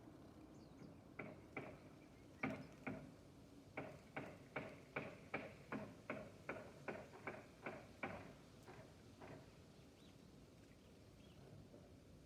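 A small bird bathing in shallow water, making a quick run of short splashes, about two or three a second, that stops about nine seconds in.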